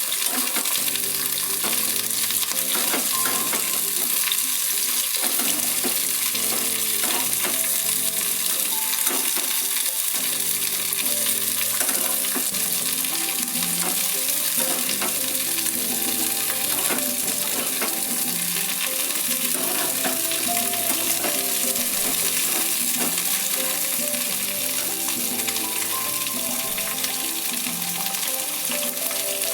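Cauliflower florets sizzling steadily in hot soybean oil in a kadai while being stirred.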